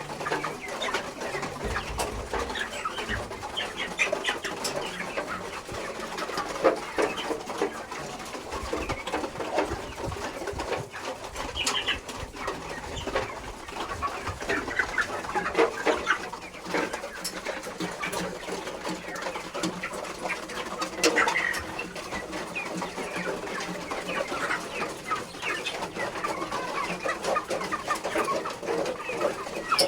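A flock of broiler chickens clucking and chirping, with many short calls overlapping without a break.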